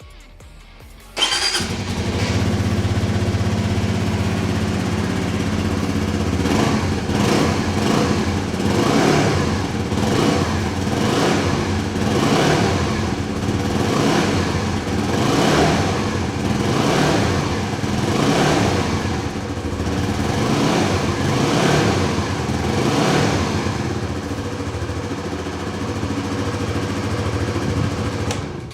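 Suzuki GSX-S125's 125 cc single-cylinder four-stroke engine, with its standard exhaust, started up about a second in and kept running. Through the middle stretch its pitch rises and falls over and over, as if the throttle is being blipped.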